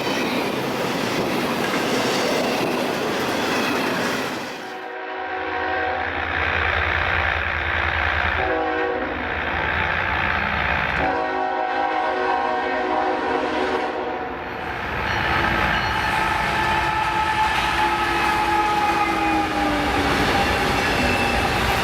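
CSX freight locomotive's air horn sounding several long blasts over the rumble of the train and its engine, the pitch of the horn slowly falling in the last blast.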